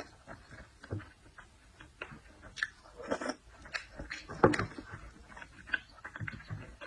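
Close-up eating sounds of seafood being bitten and chewed: irregular mouth clicks and short crunches, the loudest about four and a half seconds in.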